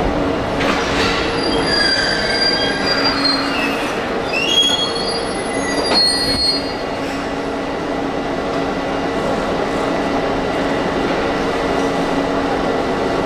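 JR East 651 series electric train braking to a stop at a platform, with high-pitched brake squeal in several tones over the first five seconds or so. After it stops, the standing train gives a steady hum.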